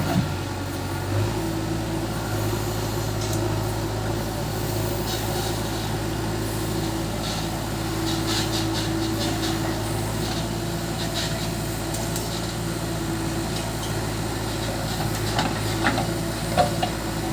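Heavy diesel engine running at a steady speed, with scattered short clanks and knocks over it, more of them in the second half.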